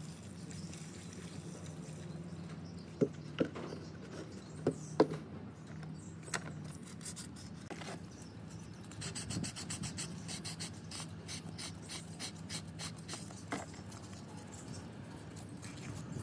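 A few sharp taps, then a run of quick, repeated rubbing strokes, several a second, as a metal or plastic part is worked by hand. A faint steady low hum sits underneath.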